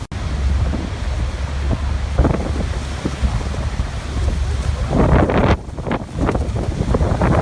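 Waterfall rushing, with wind buffeting the microphone in a low, gusty rumble. The sound cuts out for an instant right at the start.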